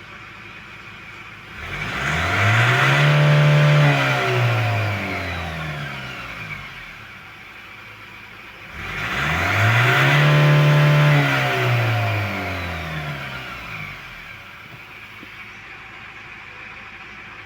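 Ford car engine idling and revved twice with the throttle, each rev climbing and falling back over about five seconds. The revs test whether the engine pulls with power again, in a car with erratic revs and limp-mode trouble, after an unplugged sensor was put back.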